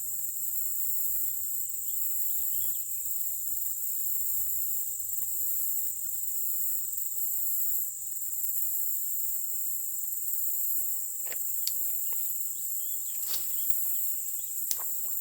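Steady, high-pitched insect chorus, with faint bird chirps early on. A few sharp clicks come in the last few seconds.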